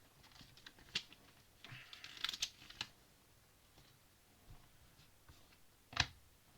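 Plastic Lego pieces being handled and pressed together: a sharp click about a second in, a cluster of clicks and rattling between two and three seconds, and a louder single click near the end.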